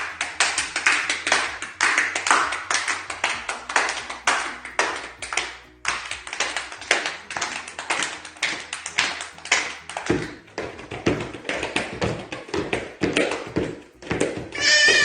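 Many hands clapping and tapping together in a dense, uneven patter, a group making the sound of a rainstorm. About ten seconds in, heavier low thuds join the patter.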